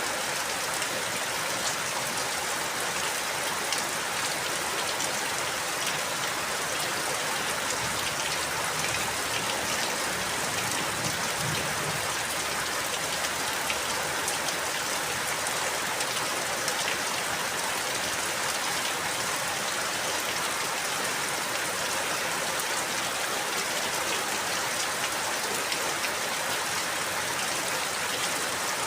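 Steady rain falling, a dense even hiss with many fine drop patters on a surface.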